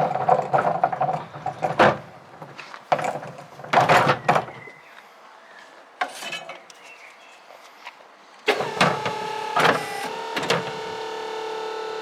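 A series of clanks and knocks, then an electric motor on the Piaggio Porter S90 electric garbage truck switches on and runs with a steady hum from a little past the middle.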